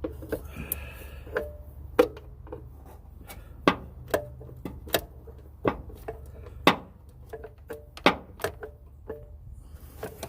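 Irregular sharp metallic clicks and knocks of a ratchet and hand tools working the blower motor's mounting screws, some clicks ringing briefly, over a steady low hum.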